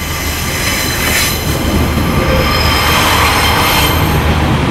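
Class 142 Pacer diesel railbus passing at close range, its wheels squealing high and steady over a low engine rumble, growing louder over the first second.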